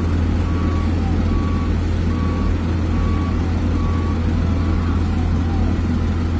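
A truck's reversing alarm beeping, one short beep every 0.8 seconds or so, over the steady low drone of a heavy truck engine. The beeping stops about five seconds in while the engine keeps running.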